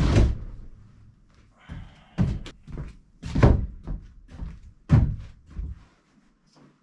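A loud thump at the start, then three heavy thunks about a second and a half apart, with a brief rustle just before the first of them.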